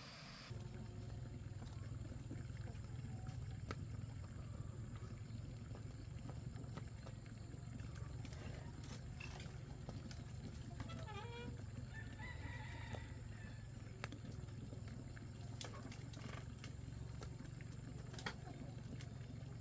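Chickens calling and clucking in short bursts, mostly around the middle, over a steady low hum and scattered light clicks.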